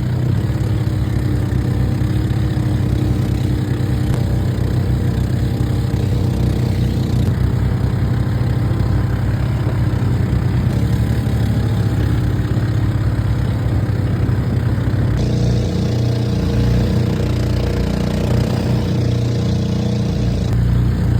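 An engine running steadily with a low hum, its sound changing a little about fifteen seconds in.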